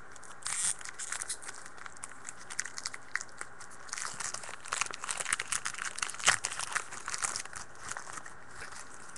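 A trading-card pack wrapper crinkling and tearing as it is opened by hand, with irregular crackles.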